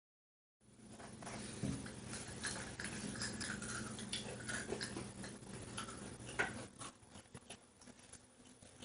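Crunching and chewing of Nature Valley Granola Crunch oat-and-honey bites, starting about half a second in, with many small crackles and clicks.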